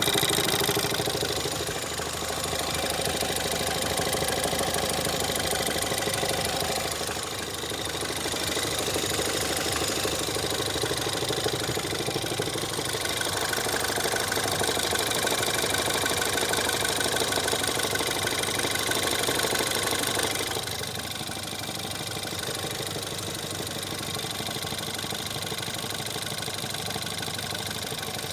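Ford Fiesta ST's 1.6-litre EcoBoost turbo four-cylinder engine running at idle with a deep knock, dropping a little in level about twenty seconds in. The owner suspects bearing damage; Ford blames the clutch release bearing, but the knock stays whether the clutch is pressed or not.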